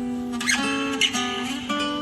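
Instrumental music: an acoustic guitar plays plucked notes, a new note about every half second.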